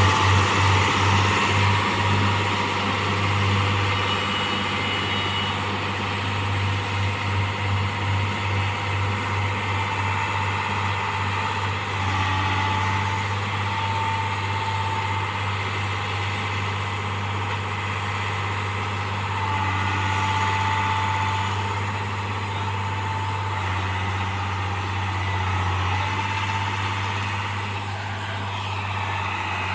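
Diesel engine of a railway track-maintenance machine running steadily, a deep hum that throbs in a fast beat at the start and again about seven seconds in, with faint mechanical whines over it.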